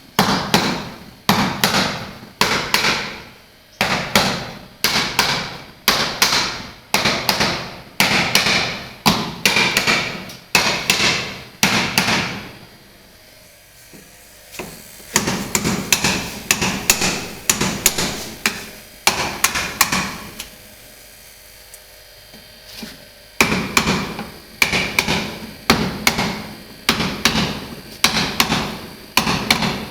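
Hammer blows striking again and again, about one or two a second, in three runs separated by two pauses of a few seconds.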